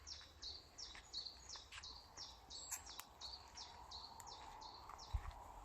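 A woodland songbird singing a long run of short, high, identical notes, about three a second, faint against a low outdoor rumble.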